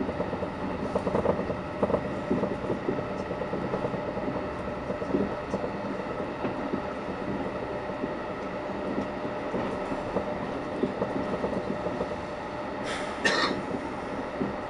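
Passenger train running along the track, heard from inside the carriage: a steady rumble with constant rattling. Near the end come two sharp clanks close together, the loudest sounds here.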